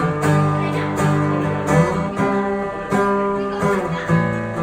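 Acoustic guitar being strummed, chords ringing on with a steady strumming rhythm, with no voice.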